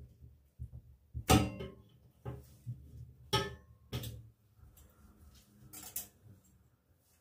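A handful of sharp knocks and clatters from hard household objects being handled and set down, one at a time, the loudest about a second in; they die away near the end.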